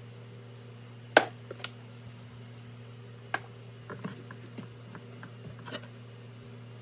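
Small objects being handled and set down on a hard surface: a handful of sharp clicks and knocks, the loudest about a second in, over a steady low hum.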